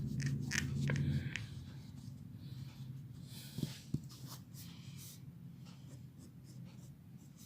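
Pencil strokes scratching on paper while sketching, in a series of short strokes with two light taps near the middle. A low hum fades out in the first second or so.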